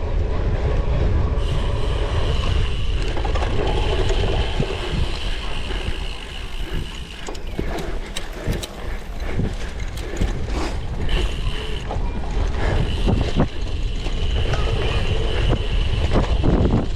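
Cyclocross bike ridden over rough ground: a constant rumble of wind and tyres, with the bike rattling and clicking over bumps, the knocks thickest in the middle stretch.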